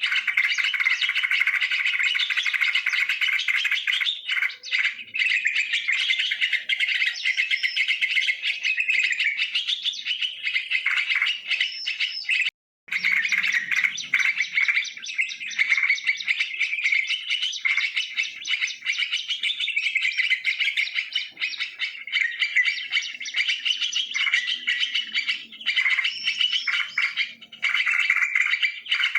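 Yellow-vented bulbuls (trucukan) chirping and calling in a dense, unbroken stream of overlapping notes. The sound cuts out for an instant about 13 seconds in.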